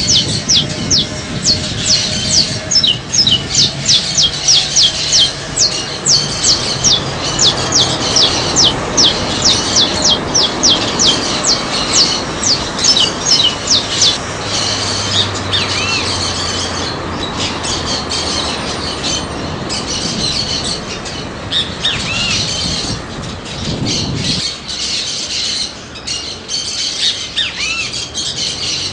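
Many birds calling at once. For about the first half there is a quick, regular run of shrill, falling chirps, two or three a second. After that comes a denser, less regular mix of calls and squawks.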